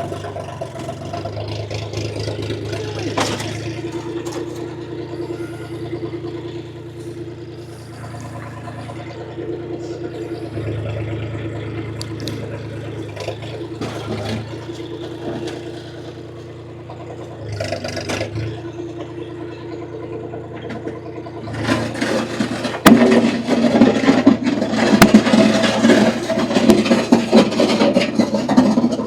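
Compact tractor engine running steadily under light load. About 22 seconds in, a much louder rough scraping and crunching noise with sharp clicks takes over.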